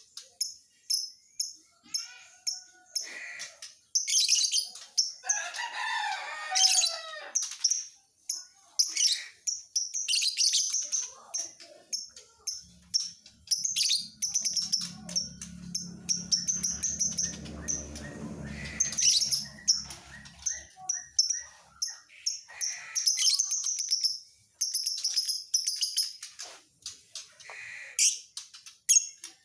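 Lovebird chirping and twittering rapidly in quick high-pitched bursts, with a few longer warbling phrases. A steady low hum sounds under it for several seconds in the middle.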